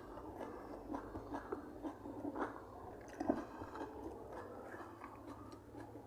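Close-miked chewing and wet mouth sounds of a person eating, with irregular smacks and small clicks and one louder smack a little past halfway.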